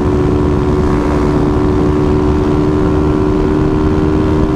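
Honda CG 160 Titan's single-cylinder engine held at high revs under full throttle, a steady unbroken drone as the bike climbs past 115 km/h toward its top speed, with low road and wind rumble underneath.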